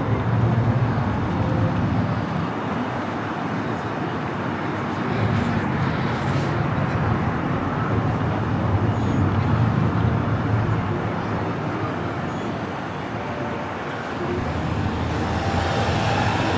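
Road traffic: a steady rumble of passing cars that swells and eases.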